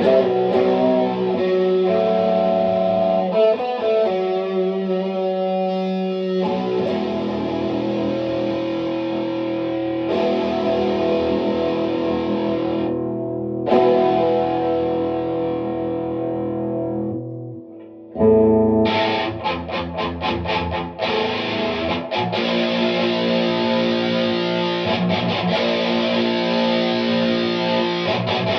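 Electric guitar driven through a Boss OD-2 Turbo Overdrive pedal into a tube combo amp, giving a tight, distorted tone. Held chords ring and fade away about two thirds of the way through, then a fast picked riff starts.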